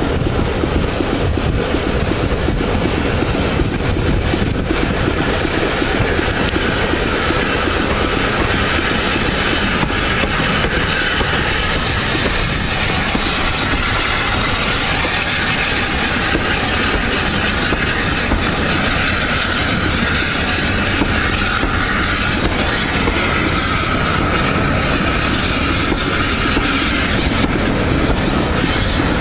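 Train running along the track, a steady rumble with the clickety-clack of wheels over rail joints.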